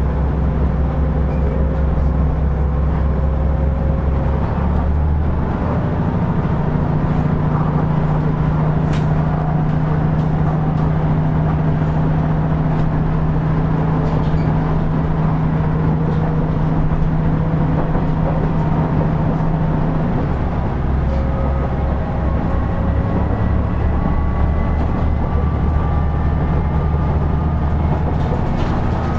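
KiHa 112 diesel railcar running, heard from inside the car: a steady diesel engine note under wheel and rail noise. The engine note shifts about five seconds in and again about twenty seconds in, and a faint whine climbs slowly in pitch near the end.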